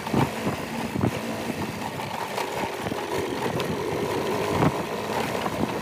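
Motorcycle engine running steadily while riding a rough off-road track, with frequent short knocks and rattles throughout.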